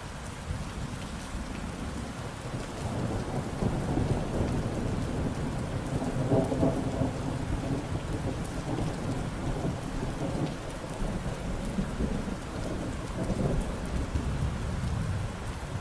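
Steady rain falling, with a long roll of thunder that builds over the first few seconds, peaks twice and eases off toward the end.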